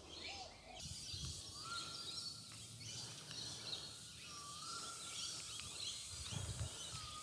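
Outdoor ambience with birds calling: a short rising whistle repeated about every three seconds, scattered higher chirps, and a low rumble underneath.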